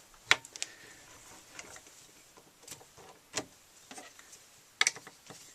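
Scattered light metallic clicks and taps as a lathe tool bit and small tools are handled and set up, with three sharper clicks among fainter ones; the lathe is not running.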